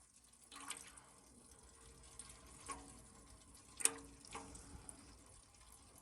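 Engine oil trickling out of the BMW N63B44 V8's sump into a drain pan, a faint steady pour with a few sharp drips.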